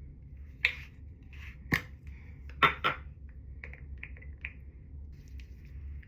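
Small objects being handled: four sharp clicks and knocks in the first three seconds, then a few lighter taps, over a steady low hum.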